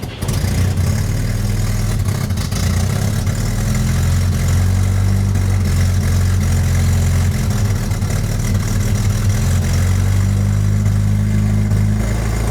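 1975 Moskvich 412's UZAM four-cylinder petrol engine catching right at the start on the second starting attempt, after years standing, and then running steadily at idle.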